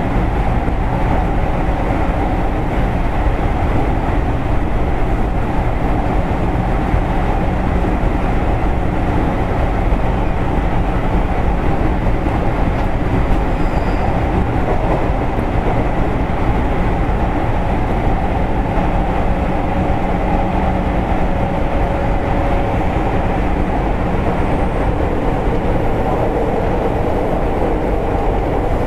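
Steady running noise of a JR East 205 series electric train, heard from inside at the end of a car: an even rumble of wheels on rail with faint steady tones, unchanging in level.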